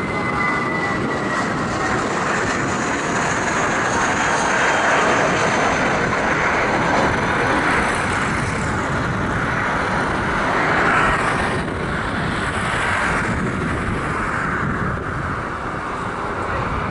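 Airbus A320's twin IAE V2500 turbofans at takeoff thrust: a steady, loud jet noise with a high whine at first. It swells to its loudest about eleven seconds in as the airliner passes, then eases.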